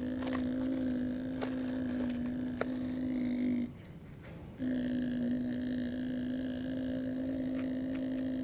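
Small electric motor of a radio-controlled construction model humming at one steady pitch, stopping a little past halfway and starting again about a second later.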